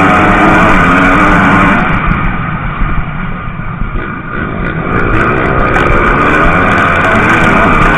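MX2 motocross bikes racing by on the track, their engines revving up and down. The engine noise drops off about two seconds in, then builds again from about halfway as more bikes come through.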